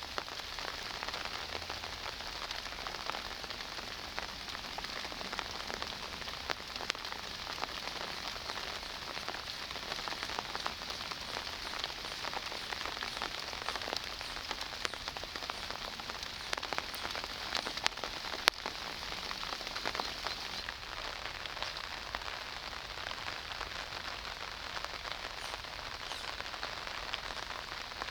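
Steady rain falling, with many close raindrop ticks pattering over the hiss of the rain and one sharper drop tick about 18 seconds in.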